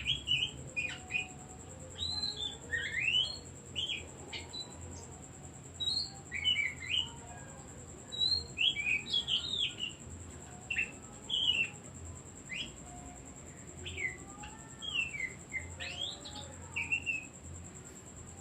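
Oriental magpie-robin singing: phrases of varied whistles and chirps, many of them quick rising or falling sweeps, with short pauses between phrases.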